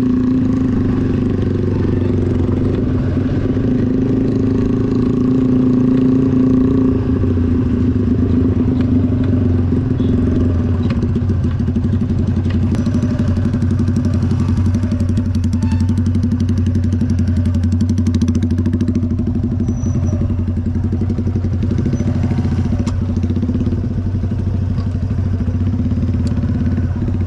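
Motorcycle engine running at a steady speed, heard from on the moving bike.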